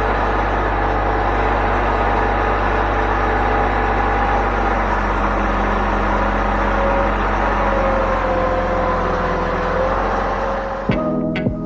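An engine running steadily, its pitch sagging slightly about two-thirds of the way through. Plucked-string music cuts in just before the end.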